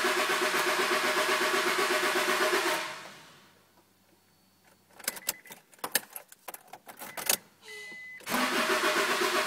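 1998 Honda Accord EX four-cylinder engine cranking on the starter with a steady pulsing rhythm but not catching, a no-start. The cranking stops about three seconds in. Keys rattle and click in the ignition, with a short beep, and the cranking starts again near the end.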